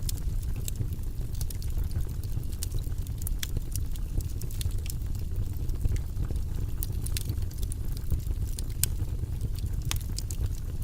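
Fire burning in a fireplace: a steady low rumble of flames with many sharp crackles and pops at irregular intervals.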